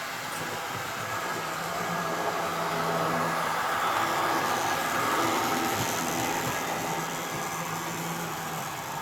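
Model train running along the layout's track: a steady motor hum with wheel-on-rail noise, growing louder toward the middle and easing off again as it passes.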